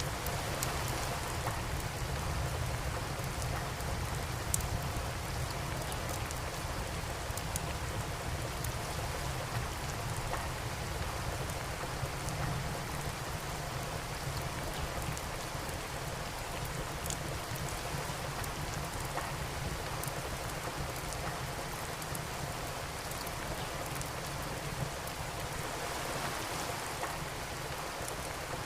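Steady rain falling, with a wood fire in a fireplace giving an occasional sharp crackle or pop.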